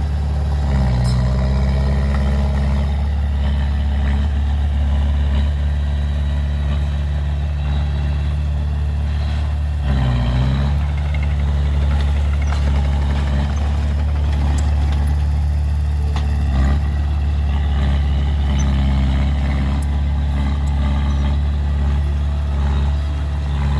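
Heavy diesel engine of earthmoving machinery running steadily with a deep, low hum. Its pitch dips briefly about a second in and again about ten seconds in.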